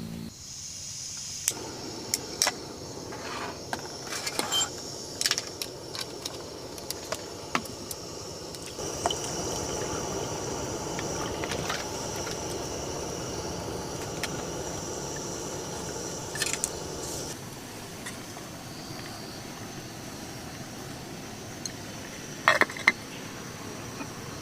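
Scattered sharp clicks and knocks, as of things being handled, over a steady hiss that grows louder for several seconds in the middle.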